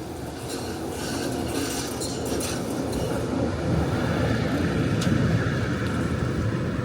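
Melbourne B2-class articulated tram running on its rails: a low rumble of wheels and motors that grows louder over the first few seconds and then holds steady, with a few sharp clicks.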